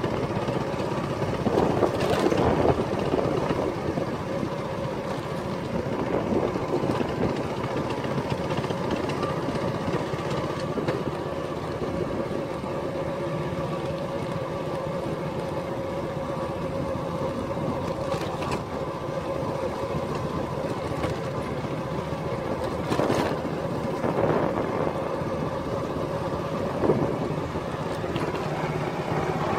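Motorcycle engine running steadily while riding, with a few short knocks along the way.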